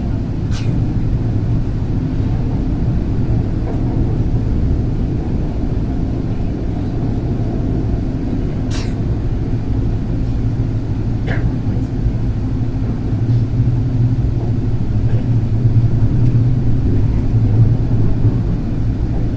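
LRT Line 2 light-rail train running, heard from the passenger car: a steady rumble and hum that grows a little louder in the second half, with a few brief sharp sounds.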